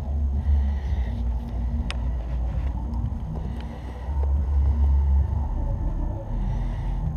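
Wind buffeting the microphone as a heavy, uneven low rumble that surges and eases, with one sharp click about two seconds in.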